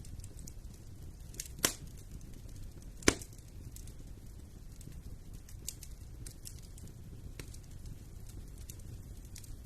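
Wood fire burning in a fireplace: a steady low rumble with scattered crackles and pops, two sharp louder cracks in the first few seconds.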